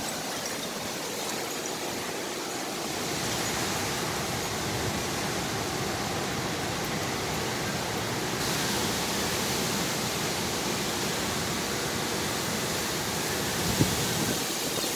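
Hurricane wind and rain making a steady rushing noise that grows a little louder a few seconds in, with a single light knock near the end.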